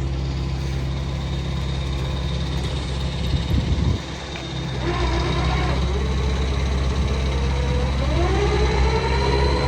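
A vehicle engine running with a steady low drone; about eight seconds in its pitch rises as it speeds up.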